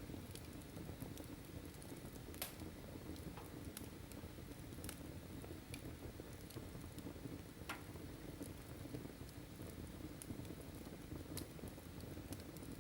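Wood fire in a fireplace burning with a steady low rumble of flames and scattered sharp crackles and pops, the loudest about two seconds in and again later.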